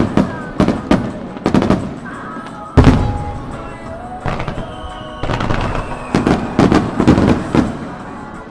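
Fireworks going off in a rapid series of sharp bangs, with about a dozen reports and the heaviest boom about three seconds in.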